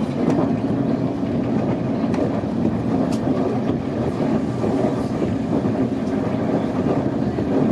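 Nankai Main Line electric train running steadily, heard from inside the car: an even rumble of wheels on rail with a few faint clicks.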